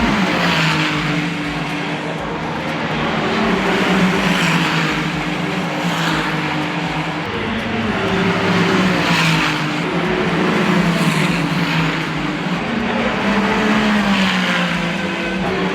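Ferrari car engine running hard on a race circuit, its pitch rising and falling repeatedly as it accelerates and changes gear.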